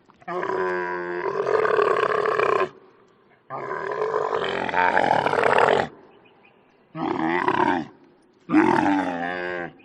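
Camel groaning and bellowing in four long, wavering calls with short pauses between them, the first two longest.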